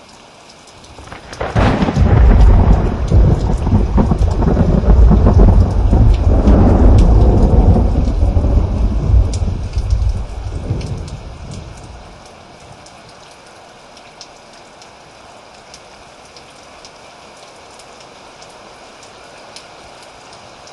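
Steady rain with a long roll of thunder. The thunder breaks about a second in, rumbles deep and loud for around ten seconds, then fades away and leaves only the rain.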